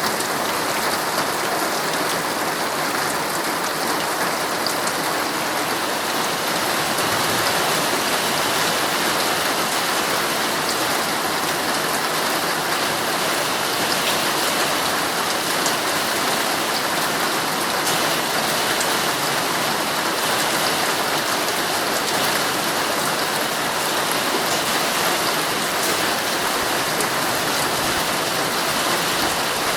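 Heavy rain falling steadily on a tent, a dense even patter of drops.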